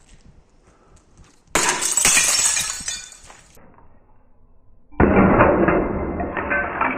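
A glass bottle breaking and shattering about a second and a half in, its pieces clinking for about two seconds. About five seconds in, a loud, muffled sound of a different kind sets in.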